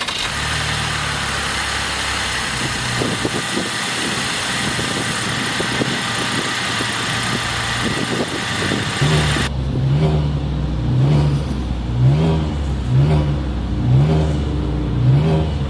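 2023 Chevrolet Traverse's 3.6-liter V6 running steadily with a hiss, then, from about nine seconds in, revved in short blips about once a second.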